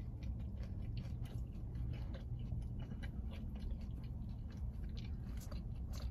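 A person chewing a mouthful of food, with many small, quick mouth clicks throughout.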